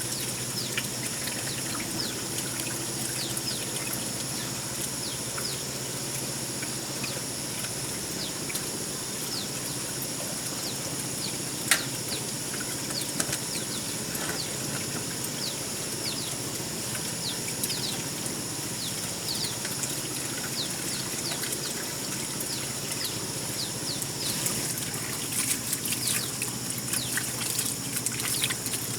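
Outdoor ambience: a steady high-pitched insect drone with many short, falling bird chirps. There is one sharp knock about twelve seconds in, and more chirps and clicks near the end.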